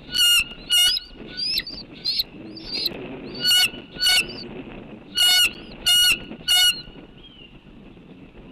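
Birds calling: seven loud, short calls in pairs and a triplet, with fainter, shorter downward calls between them in the first few seconds, over a steady background hiss.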